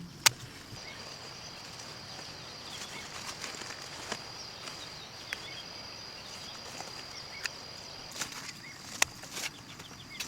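Outdoor rural ambience: a steady high-pitched tone over a faint hiss, with scattered sharp clicks and taps, a loud one just after the start and several more near the end.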